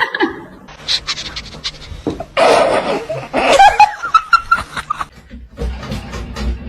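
A person laughing in short repeated bursts, with a loud rushing noise about two seconds in.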